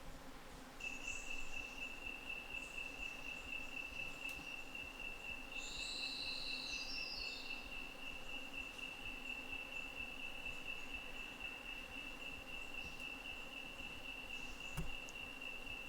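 An insect trilling on one steady high pitch, without a break, starting about a second in. Around six seconds in a brief call of a few stepped, falling notes sounds over it.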